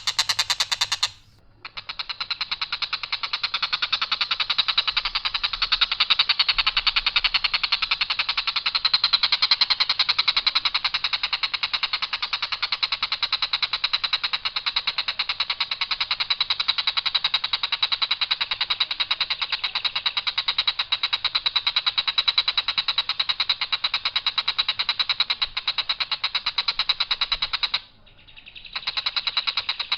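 Tengkek buto (a kingfisher) giving its rough, rasping call as one long, fast, high buzzing rattle. It breaks off briefly about a second in and again near the end, then starts again.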